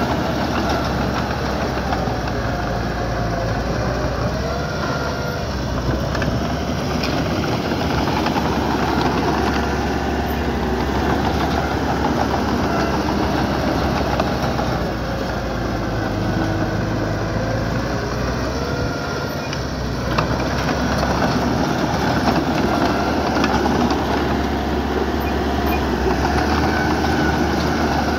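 Diesel engine of a small construction machine running continuously under working load, its pitch rising and falling as it is throttled.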